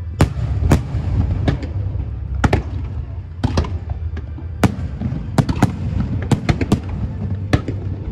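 Aerial fireworks shells bursting in quick, irregular succession: a dozen or more sharp bangs, with a steady low rumble beneath.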